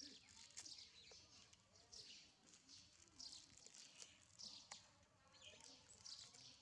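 Faint high-pitched bird chirps repeating about once a second, each call sweeping down in pitch, with a few soft clicks between them.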